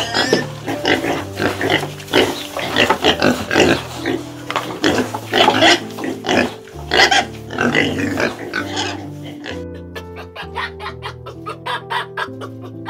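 Piglets squealing over background music. The piglets stop about three-quarters of the way through, leaving the music, a picked melody of about four notes a second.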